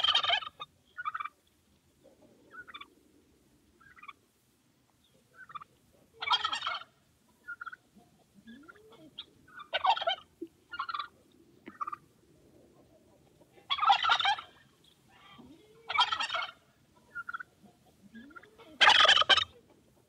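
A male turkey gobbling repeatedly: six loud, rattling gobbles a few seconds apart, with shorter, quieter calls in between.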